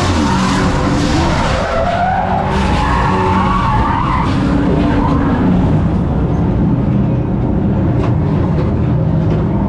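Race truck engine running hard and then dropping in pitch as it comes off the throttle, with tires skidding and squealing over it, a wavering tone that rises and falls.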